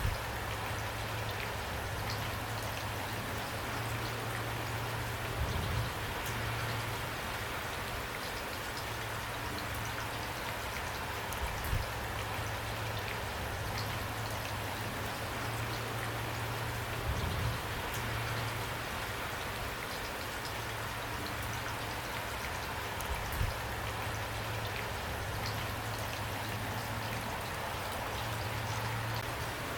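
Steady rain falling, an even patter with a low hum beneath it and a soft low thump about every six seconds.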